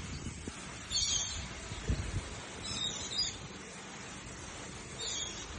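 Small birds chirping in short bursts, three times roughly two seconds apart, over a low rumbling background noise.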